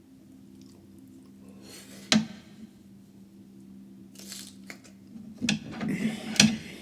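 Close-miked eating and food-handling noises: a few sharp clicks with crackling, rustling bursts between them, loudest near the end, over a faint steady low hum.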